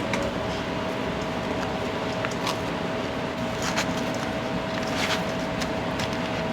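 Busy commercial kitchen noise: a steady machine hum with a constant tone, broken by scattered clinks and knocks of utensils and cookware.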